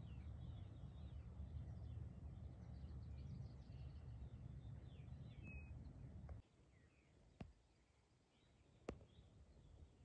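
Faint songbirds chirping and trilling over a low rumble, which cuts off suddenly about six seconds in; two sharp clicks follow near the end.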